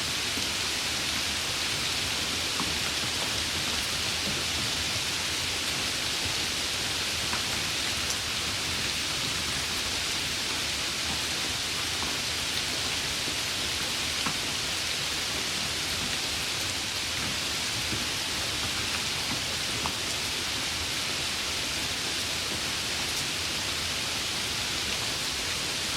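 Steady heavy rain: a dense, even hiss of falling rain with scattered single drop ticks.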